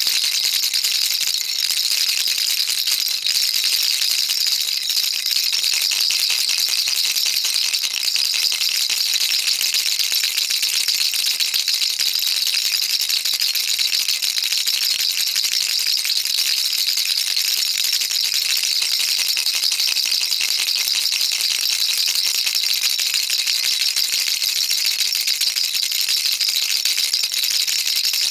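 Baby rattle shaken without pause: a dense, steady, bright rattling of many small beads clicking inside.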